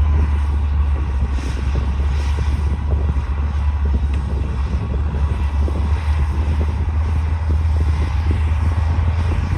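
D60 crawler bulldozer's diesel engine running steadily, a deep even drone with continuous clatter over it.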